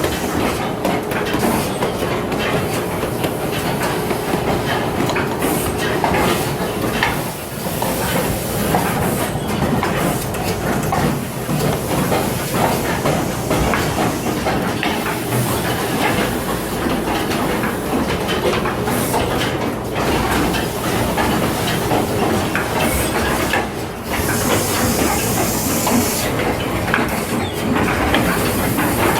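Automatic duck-down filling machine running: continuous mechanical clatter with rapid clicking, broken by short hisses of air and a longer hiss near the end.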